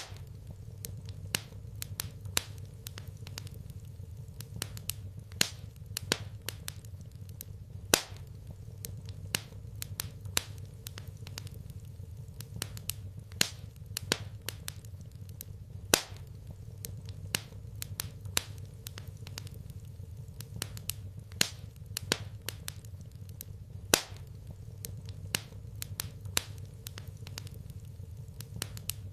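Wood fire crackling in a fireplace: irregular sharp pops and snaps, several a second, over a low steady hum.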